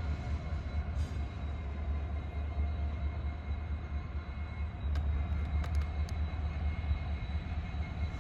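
Freight train with its diesel locomotive running, a steady low rumble; a few sharp clicks about five to six seconds in.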